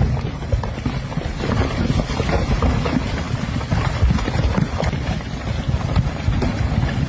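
Storm noise of rushing floodwater with wind buffeting the microphone: a steady, dense noise crackling with many small splashes and knocks.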